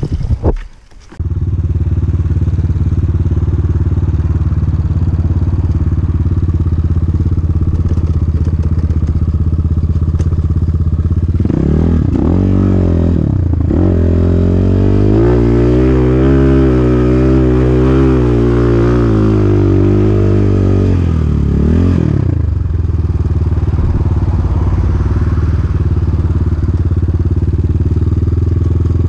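Dirt-bike engine running steadily while being ridden, then from about 11 to 22 seconds in revving up and down through several rises and falls in pitch, before settling back to a steady run.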